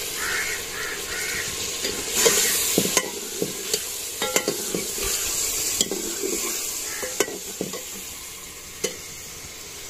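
Chicken curry frying in an aluminium pot, sizzling as chopped tomatoes and green chillies go in, while a steel ladle stirs and clinks against the pot. The sizzle swells about two seconds in.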